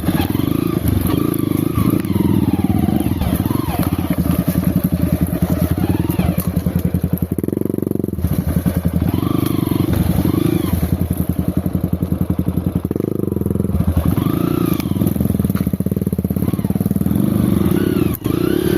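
Off-road motorcycle engine being ridden at low speed under load, the revs rising and falling again every couple of seconds as the throttle is opened and closed.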